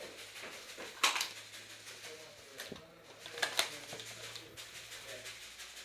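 Sharp snaps over a low background hiss: one loud snap about a second in, and two more close together around three and a half seconds in.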